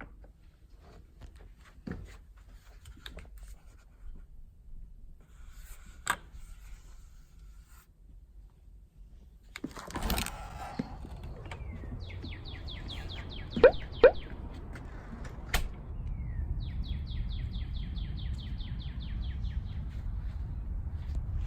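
A small songbird singing a rapid trill of quick repeated high notes, twice, over a steady outdoor background. Before that there are quiet small clicks, then a short noisy rustle about ten seconds in, and two sharp clicks come between the trills.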